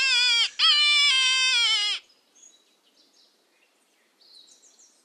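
An animal giving two loud, pitched cries, each sliding down in pitch, the second longer at about a second and a half.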